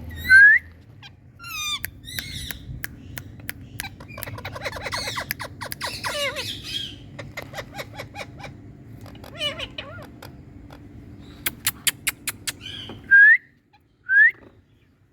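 Indian ringneck parakeets calling: loud, short rising screeches about half a second in and twice near the end, with trains of sharp clicks and bouts of chattering in between.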